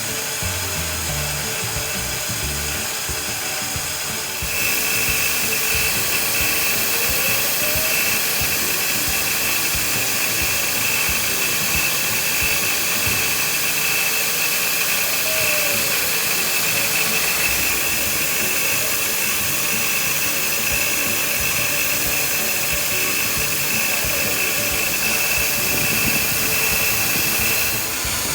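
CNC machine spindle running and milling POM (acetal plastic), a steady high whine over cutting noise. About four and a half seconds in it grows louder and a high steady tone sets in, dropping away again just before the end.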